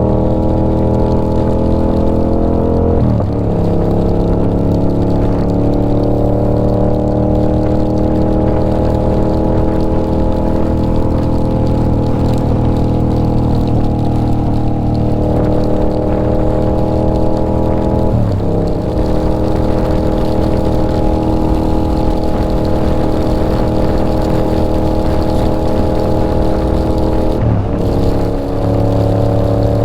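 2024 Yamaha R7's 689 cc parallel-twin engine running steadily at cruising speed, heard from the rider's position. The steady engine pitch is broken three times by a brief dip, as at a gear change: about three seconds in, again after about eighteen seconds, and near the end.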